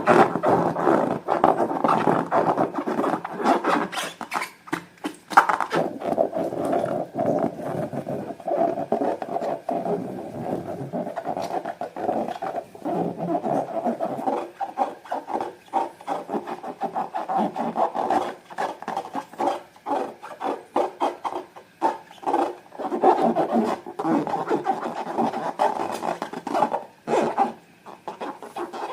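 Slime being squished and mixed by hand: a sticky, crackling texture of many small, uneven clicks and squelches.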